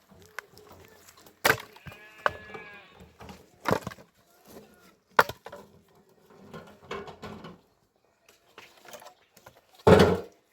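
Several sharp, hard knocks, the last the loudest, with a goat bleating once, wavering, about two seconds in.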